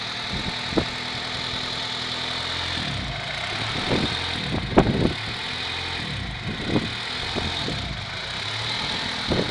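1992 Honda Prelude engine idling roughly: a steady low hum whose pitch wavers, broken by sharp stumbles every second or so, the strongest about halfway through. The cause of the rough idle is unknown to the owner.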